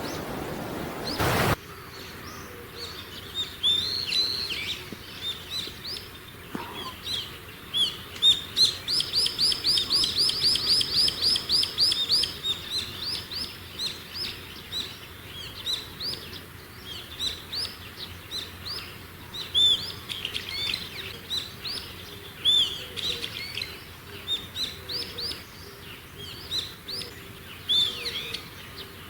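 Small wild songbirds chirping and calling, with many short high notes. About a third of the way in comes a fast trill of rapidly repeated notes, about ten a second. A brief hiss opens the sound.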